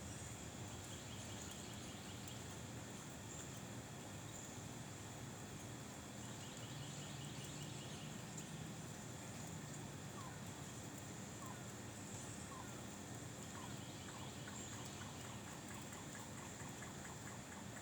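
Faint outdoor ambience: a steady high-pitched hiss with a run of short rising chirps about halfway through.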